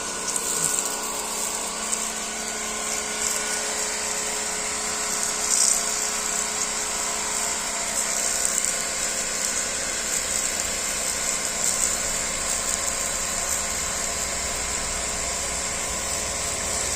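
Daihatsu three-cylinder marine diesel engine running steadily, with a constant hum and a high hiss over it.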